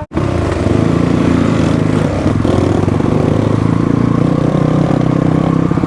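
Motorcycle engine running at a steady speed while riding, a constant engine note with light wind hiss; the sound drops out for an instant right at the start.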